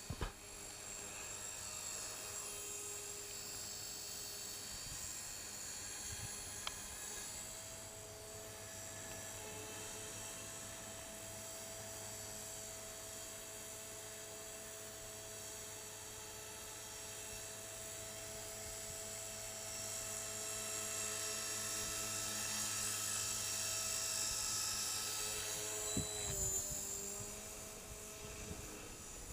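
450-size electric RC helicopter (450 Pro DFC) in flight: a steady high whine of motor, gears and rotor. It grows louder for a few seconds past the middle, and near the end the pitch dips briefly with a sharp knock.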